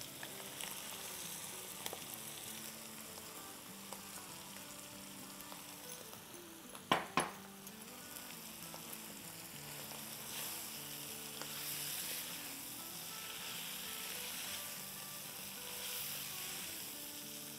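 Shredded cabbage sizzling as it fries in hot oil and tomato masala in an electric wok, stirred with a silicone spoon. There are two sharp knocks close together about seven seconds in.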